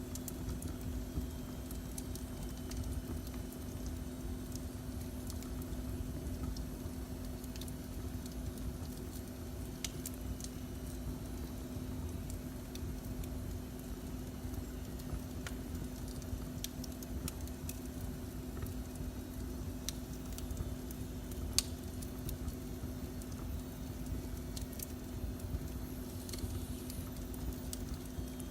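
Wood fire burning in a fireplace, with sparse sharp crackles and pops and one louder pop about two-thirds of the way through, over a steady low rumble and hum.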